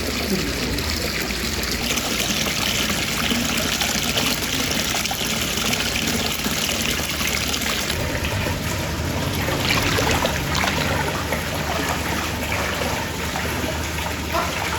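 Water trickling and pouring steadily into a foot bath.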